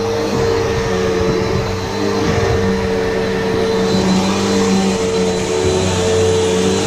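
Upright vacuum cleaner running steadily on carpet, a loud even motor hum over a broad rushing hiss of air.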